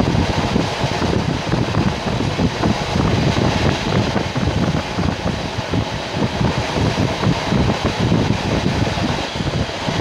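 Steady, loud rumble and rush of a diesel-hauled passenger train running along the line, heard from aboard one of its coaches.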